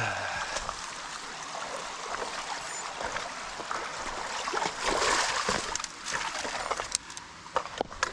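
Mountain bike rolling along a trail: a steady rushing noise of tyres and wind, swelling about five seconds in, with sharp clicks and rattles near the end.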